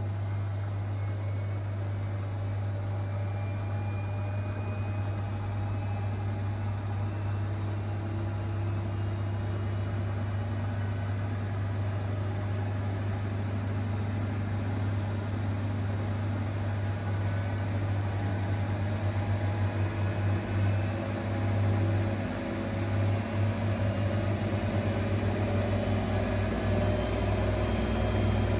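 Zanker EFX 4875 washing machine spinning up on its final spin, heading for 1800 rpm: a steady deep hum with a motor whine slowly rising in pitch. About two-thirds of the way through the loudness begins to pulse and swell.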